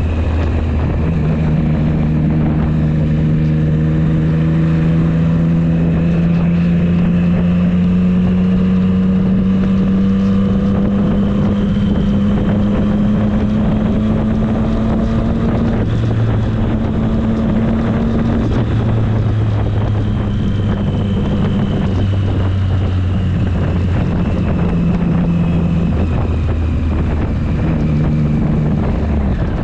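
Triumph Street Triple 765 S inline three-cylinder engine running steadily while riding, its pitch climbing slowly over the first half and then holding with small dips. Wind noise buffets the microphone throughout.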